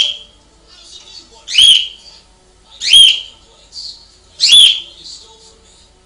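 Caged pet bird giving loud, rising whistled calls, about one every second and a half, with softer chirps in between.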